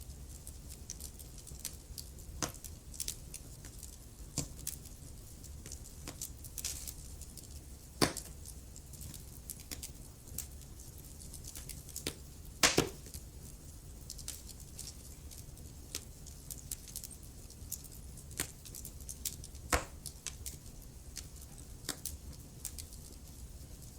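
Wood fire burning in a fireplace: irregular sharp crackles and pops over a low, steady rumble of the flames, with a few louder snaps, one about halfway through.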